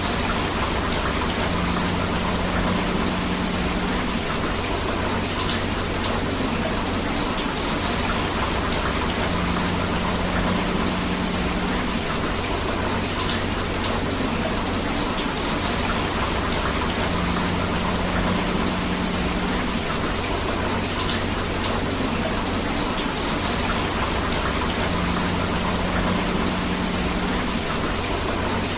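Steady rain with a flowing river, an even rushing hiss of water without pauses. A faint low hum comes in for a couple of seconds about every eight seconds.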